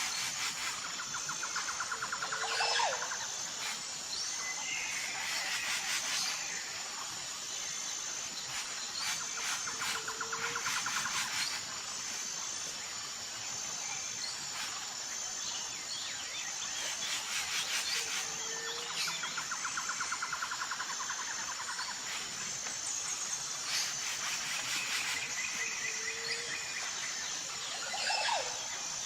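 Tropical forest ambience: a steady, high, pulsing insect drone under repeated bird calls, with rattling trills and a short low whistled note that recurs about every eight seconds.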